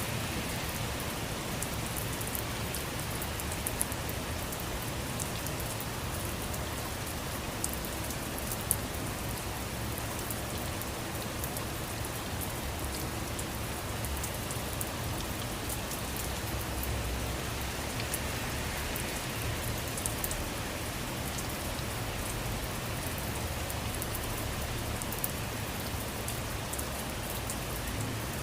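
Steady rain falling, with scattered sharper raindrops ticking through it now and then.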